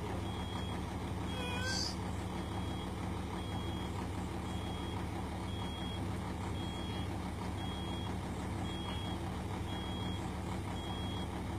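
Kobelco excavator's diesel engine running steadily, with a high electronic beep repeating about once a second: the travel alarm that sounds while the machine's tracks are being driven.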